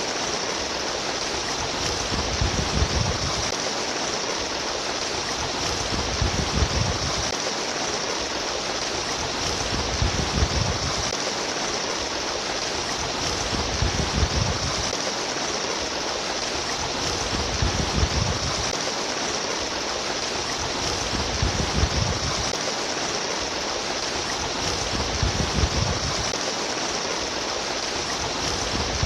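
Stream water running and splashing steadily, with a low surge that comes back about every four seconds.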